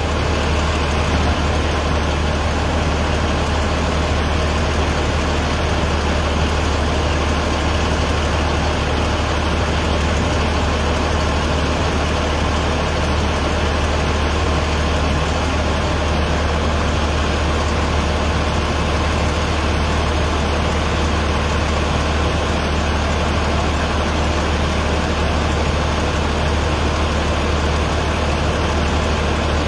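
Heavy vehicle engine idling steadily, a constant low rumble with no change in pitch or level.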